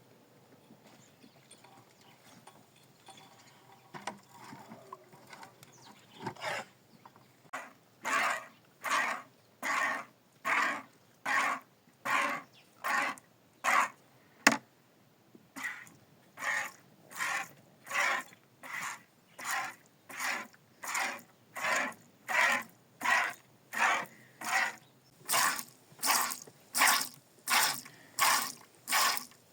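Hand-milking into a pail: regular squirts of milk hitting the pail, about one stroke a second, starting some six seconds in and quickening slightly near the end.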